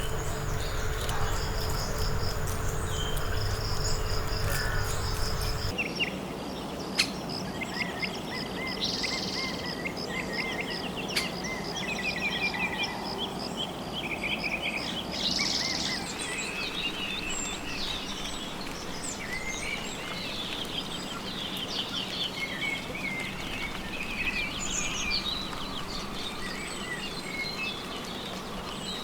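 Tropical rainforest ambience: many birds chirping, trilling and calling over a steady background of insects. For the first six seconds a low rumble and a steady low hum run underneath, then stop abruptly.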